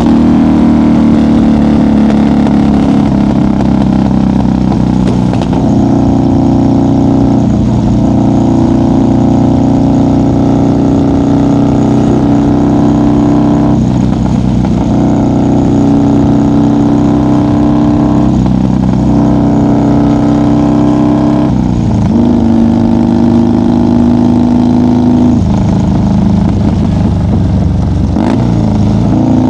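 1990 Harley-Davidson FXR's 1340 Evolution V-twin running at highway speed, heard from the rider's seat. The engine note holds steady but dips and breaks briefly about seven times as the throttle changes.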